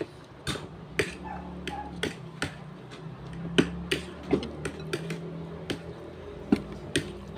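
Cutlery tapping against a plate during a meal: about ten sharp clicks at irregular spacing over a faint steady low hum.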